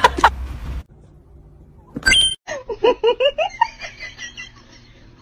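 A brief sharp sound, then a person giggling in a quick run of short laughs that fades out.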